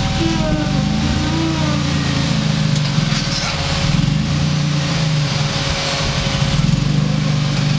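Off-road rock-crawling rig's engine running, its note rising and falling with the throttle as it works over the rocks.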